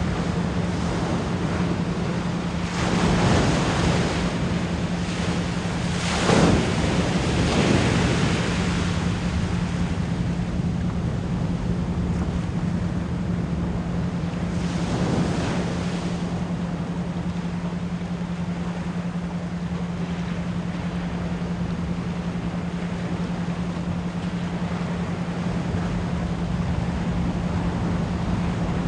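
Ocean waves surging and washing in, with louder swells about 3 seconds in, around 6 to 8 seconds and about 15 seconds in, over a steady 174 Hz pure tone held throughout.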